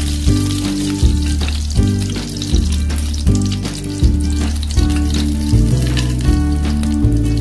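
Hot oil sizzling and crackling around whole spices such as cloves and black peppercorns in a stainless steel pan, under background music with a steady beat.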